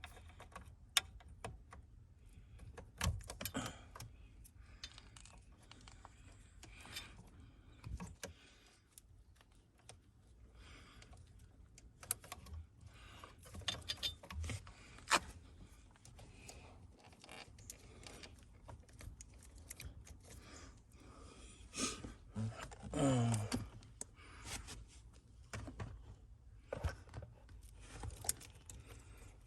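Metal tools and small parts being handled while working on a car's steering wheel: irregular clinks, clicks and short rattles, with one brief squeak falling in pitch about two-thirds of the way through.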